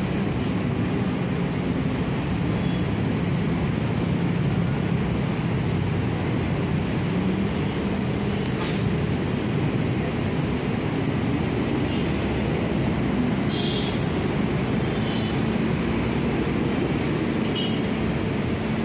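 Steady road traffic noise with the low hum of bus engines running.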